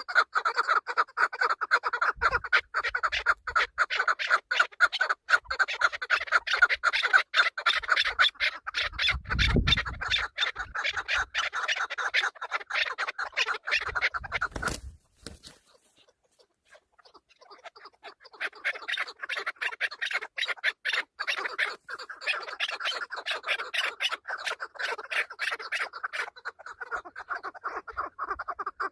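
Chukar partridges calling in a dense run of rapid clucks. The calls break off for about two seconds around the middle, then start again. A low thump comes about ten seconds in.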